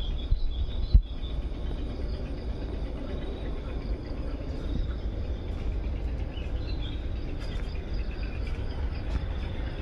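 Insects chirping in the background over a steady low rumble on the microphone, with a single sharp bump about a second in.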